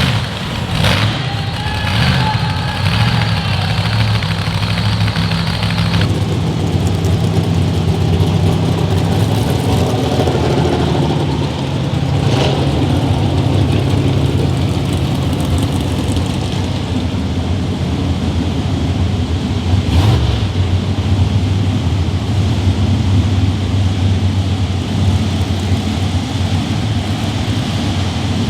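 A pulling vehicle's large engine running steadily, with brief sharp cracks about midway and again about two-thirds of the way in.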